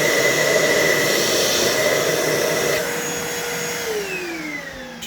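Hoover Total Home Pet vacuum cleaner running at full suction, air rushing through its hose into an anemometer, with a steady high whine. In the last second or so the motor winds down after being switched off, its whine falling in pitch.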